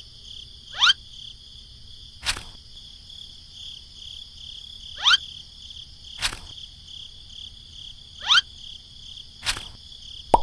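Three rising whistle-like swoosh sound effects, each followed about a second later by a short knock as a toy pineapple is set down in a wooden toy trailer, over a steady background of cricket-like chirring.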